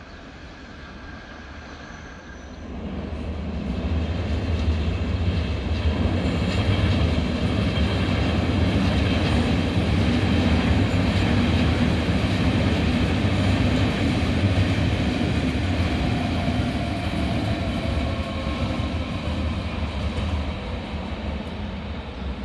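Electric train running past, its low rumble swelling about three seconds in and easing off near the end, with a faint high whine above it.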